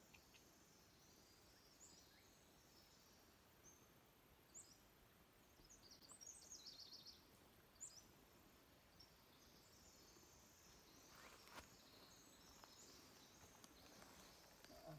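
Near silence: quiet forest ambience with faint, scattered high-pitched bird chirps, including a quick run of notes about seven seconds in.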